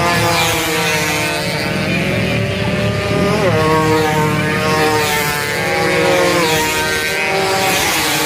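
Two-stroke racing motorcycles running hard at high revs, several engines at once, their pitch dropping sharply at gear changes about three seconds in and again near the end.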